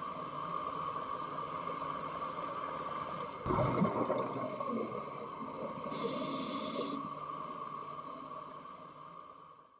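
A scuba diver breathing through a regulator underwater: a burst of exhaled bubbles about three and a half seconds in and a hissing inhale about six seconds in, over a steady hum.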